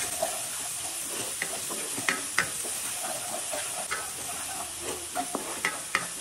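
Ground garlic and shallots sizzling steadily in hot oil in a non-stick wok as they are sautéed until fragrant. A wooden spoon stirs through them, scraping and tapping the pan with scattered short clicks.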